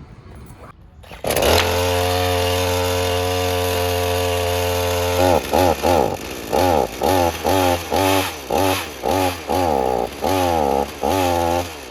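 Chainsaw starts abruptly about a second in and runs steadily at speed. From about halfway it is run in a string of short bursts, about one and a half a second, each spinning up and dying away.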